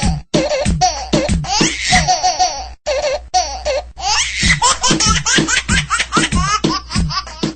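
Comedy laughter sound effect: a rapid, high-pitched run of 'ha-ha' laughs over a music backing with a steady bass, cutting out briefly twice.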